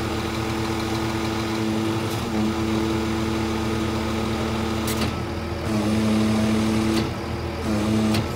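Scania R410 truck's diesel engine running steadily, its pitch and loudness stepping up and down several times, with a few short clicks in between.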